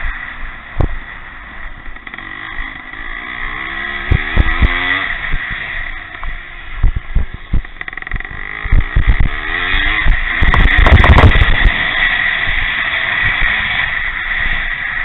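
Vintage pre-1965 motocross motorcycles racing, their engines revving up and down as they ride past, twice. A louder low rumble comes about two thirds of the way through, with short thumps throughout.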